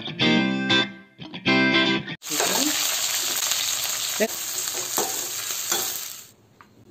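Short burst of guitar music, then, about two seconds in, sliced onions frying in oil in a steel kadai, a steady sizzle with a few knocks of a metal ladle stirring. The sizzle cuts off a little after six seconds.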